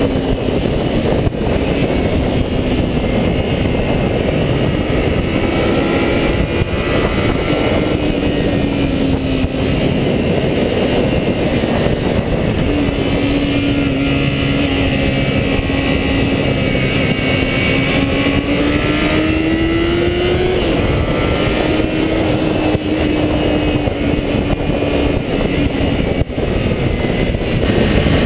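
400cc motorcycle engine running at high revs under way. Its pitch holds fairly steady, climbs slowly to a peak about twenty seconds in, then drops back, over a heavy rush of wind and road noise.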